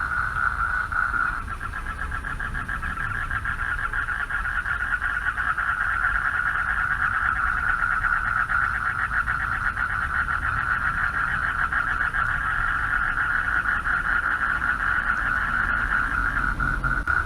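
Chorus of male frogs calling for mates: a dense, steady trill of rapid pulses, over a low rumble.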